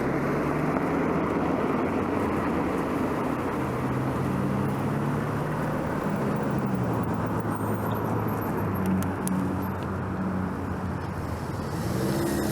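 Road traffic heard from a bicycle: motor vehicles passing, their engine hum shifting in pitch over a steady rushing noise, with a rising engine note near the end.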